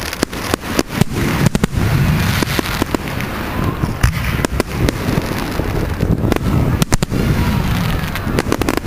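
Firework display going off: a rapid, continuous run of sharp bangs and crackles from aerial fireworks, with a few faint whistles among them.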